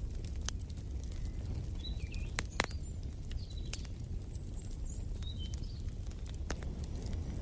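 Fireplace fire crackling, sharp pops scattered over a steady low rumble, with a few short, high bird chirps through the middle.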